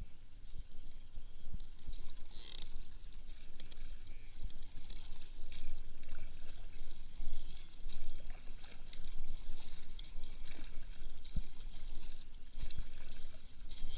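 Kayak paddling: irregular splashing and water noise from the paddle blades every second or two, over a steady low rumble.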